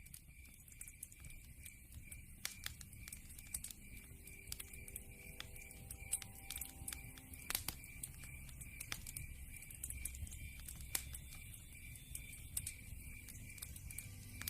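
Wood fire crackling in a fireplace, with scattered sharp pops and snaps over a low rumble.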